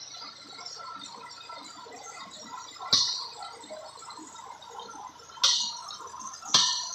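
Three sharp knocks, about three, five and a half and six and a half seconds in, each ringing briefly, over steady low-level site noise.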